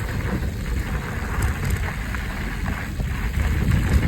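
Steady rumble of wind on the microphone and mountain bike tyres rolling over a rough dirt trail, with scattered small clicks and rattles.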